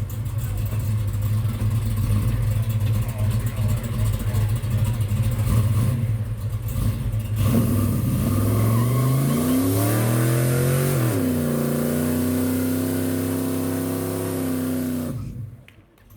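Car engine idling, then revved up about halfway through and held at a steady higher speed before it stops abruptly near the end.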